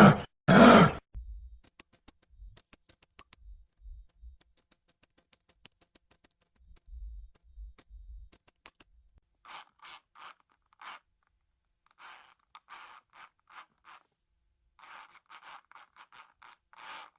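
Two loud animal grunts in the first second, then a quick run of light clicks and short, rasping scratches and scrapes.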